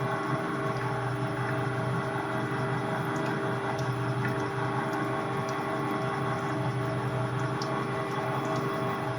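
A machine tool's motor running steadily: a constant hum with several steady tones, and faint scattered ticks above it.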